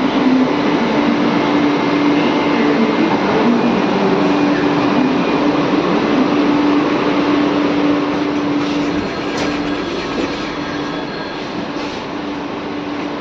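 A train running on rails: a steady loud rumble with a held humming tone, easing off a little in the last few seconds.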